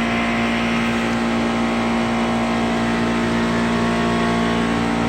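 Refrigeration chiller's compressor running with a steady, even mechanical hum, made of many pitched overtones with a regular low pulsing under it.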